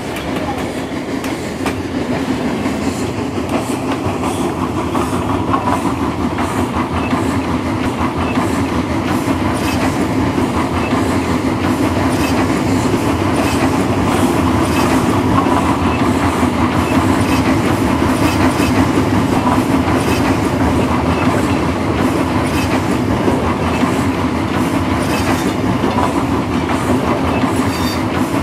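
Train running on rails: a steady rumble with the rhythmic clickety-clack of wheels over the rail joints, growing louder over the first several seconds and then holding.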